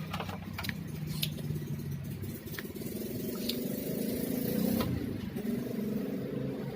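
A steady low drone, like a motor vehicle engine running nearby, with a few sharp small clicks and taps over it.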